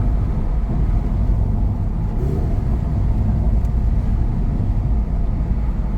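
Steady low rumble of engine and road noise inside a sports car's cabin while it cruises.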